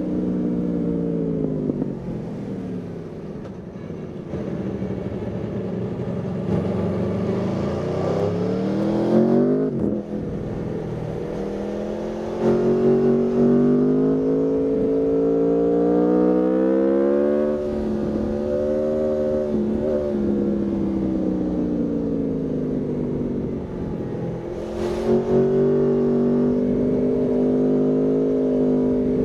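Aprilia Tuono V4 motorcycle's V4 engine under way, its pitch falling as it slows over the first few seconds, then climbing under acceleration until it drops off sharply about ten seconds in. It climbs again, eases down for several seconds, and climbs once more near the end.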